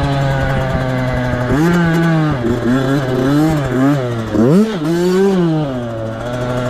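A 65cc two-stroke motocross bike's engine at race speed, running steady at first, then revving up and down several times as the rider works the throttle, with a quick drop and sharp climb about two-thirds of the way through.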